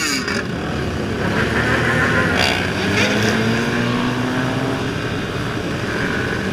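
Motorcycle engines running and revving on a street, a dense steady rumble with individual bikes changing pitch; one engine note rises slowly for about two seconds in the middle, and a few short sharp cracks come at the start and a little before the middle.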